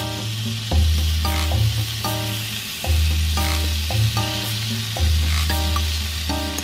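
Sausages sizzling in a small cast-iron skillet, a steady frying hiss, under background music with a bass line and a repeating plucked melody.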